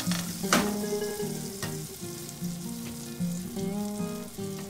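Butter sizzling in a saucepan, with a sudden louder burst of sizzle about half a second in as sliced shallots go into the hot butter, then a steady frying hiss. Soft guitar music plays underneath.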